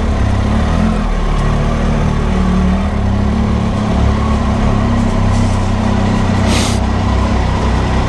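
Triumph Tiger 800 motorcycle's three-cylinder engine running steadily at a constant pitch, with a brief hiss about six and a half seconds in.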